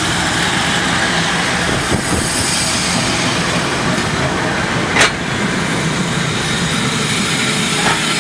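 Passenger train hauled by an EP2K electric locomotive arriving past the platform: the locomotive's body and then the coaches roll by with a steady rumble of wheels on rails. A sharp knock comes about five seconds in, with lighter ones near two and eight seconds.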